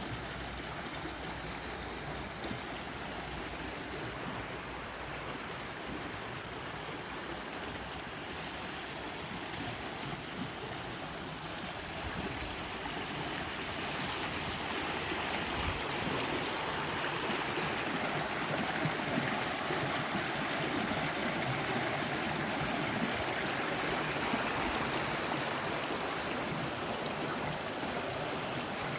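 Flowing water: a steady rushing that grows a little louder about halfway through.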